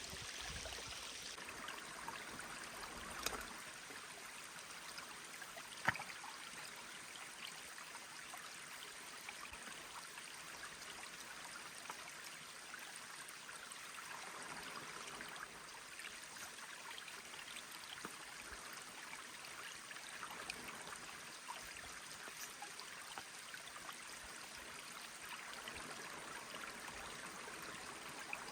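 Mountain stream flowing steadily over stones, a constant rushing hiss. Two sharp clicks stand out, about three seconds in and again near six seconds.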